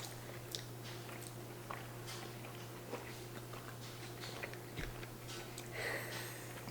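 Faint chewing of Burger King chicken nuggets close to the microphone, with soft, irregular mouth clicks and smacks over a steady low hum.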